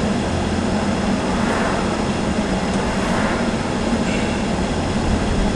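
Steady, even rumble and hiss of a moving vehicle, with a constant low hum underneath.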